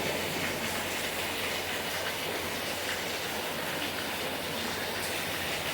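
Heavy tropical-storm rain pouring down, a steady, even hiss with no break.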